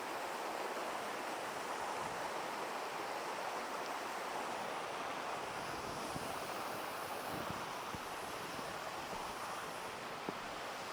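Steady rush of a waterfall, water falling about 60 metres onto rocks, with a faint click near the end.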